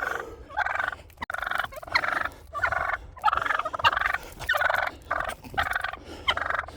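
Turkeys gobbling over and over, a string of short rattling gobbles following one another every half second or so.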